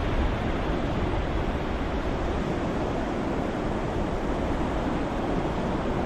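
Ocean-waves white noise: a steady, even wash of surf with no separate breakers standing out.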